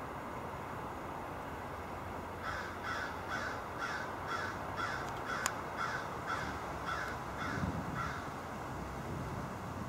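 A bird giving a run of about a dozen evenly spaced calls, a little over two a second, over a steady background hiss.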